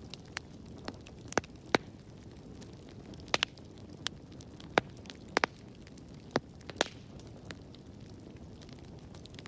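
Wood fire crackling in a fireplace: a steady low rumble of flames with sharp pops, about a dozen in the first seven seconds and fewer near the end.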